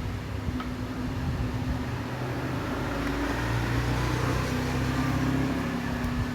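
A steady low mechanical hum that swells through the middle and eases off near the end.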